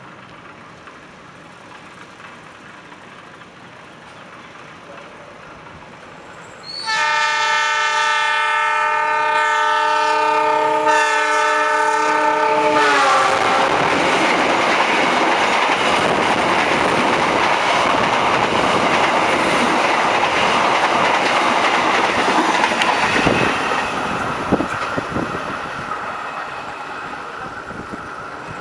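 An oncoming diesel-hauled passenger train sounds a loud multi-tone horn from about seven seconds in for roughly six seconds, the chord dropping in pitch as the locomotive passes. Its carriages then go by close alongside with a loud rumbling rush and wheel clicks that fade towards the end. A low rumble is heard before the horn.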